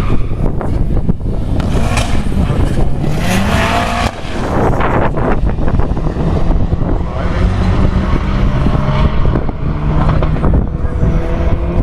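Vauxhall Vectra B's stage 5 tuned Saab B204 turbocharged four-cylinder engine running with a bad misfire; the revs rise about two seconds in, then hold fairly steady.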